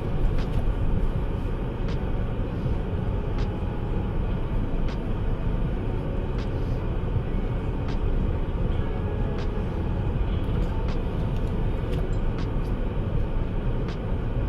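A car running: a steady low rumble with a few faint scattered clicks.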